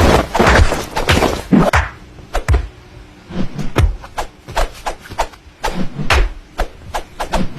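A run of irregular knocks and taps, a few a second, with a busier, louder stretch in the first two seconds.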